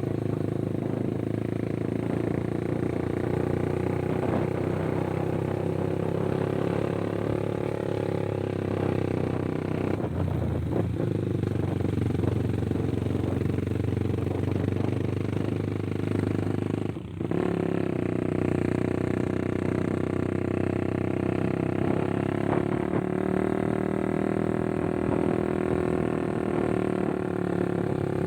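Motorcycle engine running steadily while riding. The sound dips briefly about two-thirds of the way through, then carries on.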